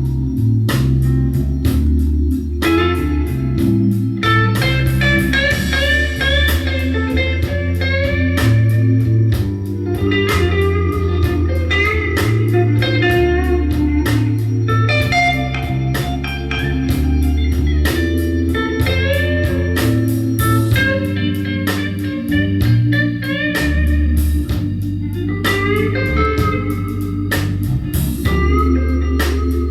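Instrumental blues break: a lead guitar solos with bent notes over a bass line and drums.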